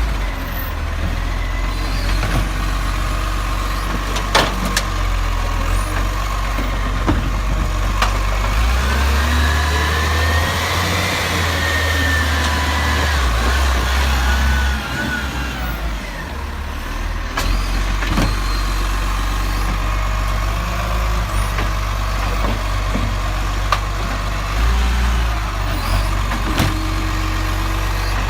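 Garbage truck engine running steadily with a low rumble. A whine rises and falls about halfway through, and a few sharp knocks are scattered through the sound.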